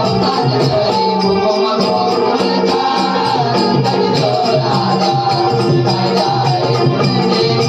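Marathi naman folk music: a shahir's voice singing a devotional song about Krishna over a steady beat, with jingling, rattling percussion.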